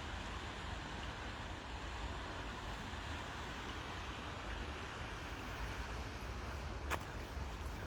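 River water rushing in a steady, even hiss, with a single sharp click about seven seconds in.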